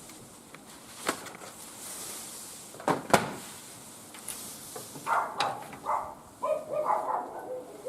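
A few sharp knocks and clatters of objects being handled, then a quick run of short pitched calls in the second half.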